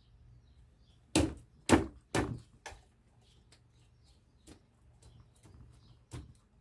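A series of sharp knocks in the workshop: three loud ones about half a second apart, starting about a second in, then a weaker one and a few fainter taps later on.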